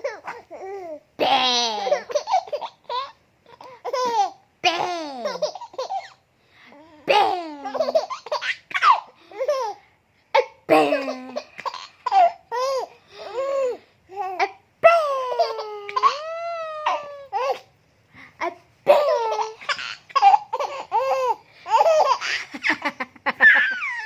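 Baby laughing hard in repeated bursts of laughter, high-pitched and rising and falling in pitch, with short pauses between the bursts.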